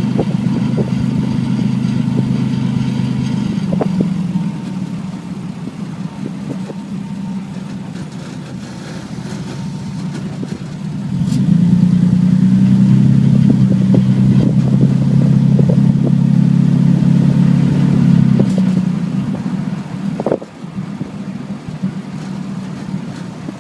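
Twin-turbocharged Toyota 2JZ inline-six running under way. It is loud for the first four seconds, eases off, pulls loud again from about eleven to eighteen seconds, then drops back, with one short sharp sound about twenty seconds in.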